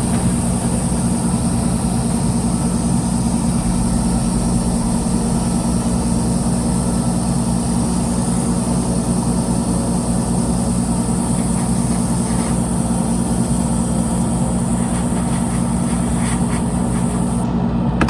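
Steady low mechanical drone, like an engine running, with a constant high hiss over it; the hiss cuts off near the end.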